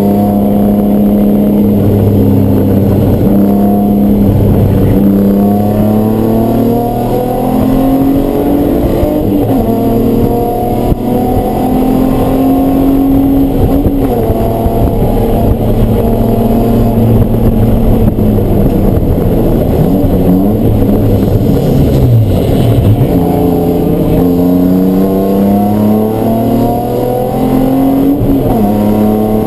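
Race car engine running hard on track, its pitch holding, climbing and dropping through gear changes. It falls sharply about twenty-two seconds in as the car slows, then builds again.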